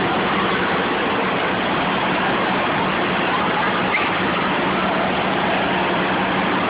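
Steady din of an indoor water park wave pool: a continuous wash of water noise with faint distant voices, over a steady low hum.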